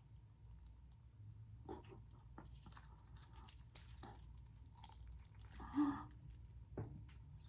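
Crispy fried batter of a mozzarella corn dog crackling faintly as it is pulled apart for a cheese pull, with scattered small crackles and a louder crunch near the six-second mark.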